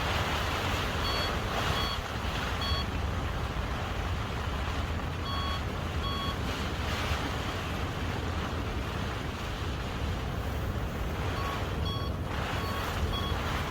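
Strong wind buffeting the microphone in a sudden storm gust, a deep rumble under steady rushing noise. Short electronic beeps sound several times at uneven spacing, a few near the start, a couple in the middle, and a quick run near the end.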